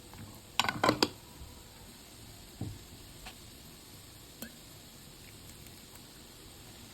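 Kitchen utensils and cookware knocking and clinking: a quick run of sharp knocks about half a second in, then a single knock and a couple of light clicks, over a faint steady hiss.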